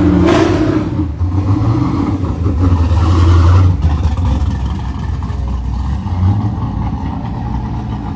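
Car engine running and revving, loud for the first four seconds, then easing off to a lower, steadier run.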